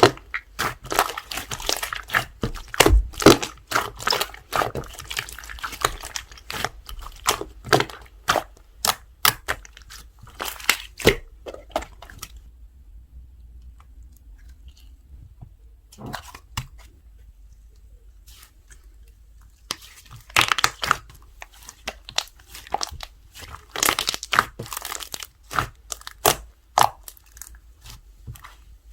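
Slime being squished and stretched by hand, with rapid sharp clicks and pops of trapped air. It goes quieter for several seconds in the middle, then the clicking picks up again.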